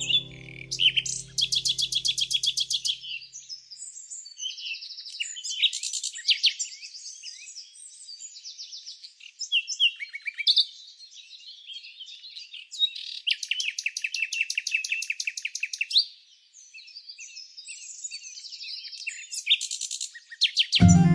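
Songbirds chirping and singing, with fast rattling trills of about two seconds, one soon after the start and another past the middle. Guitar music dies away in the first seconds.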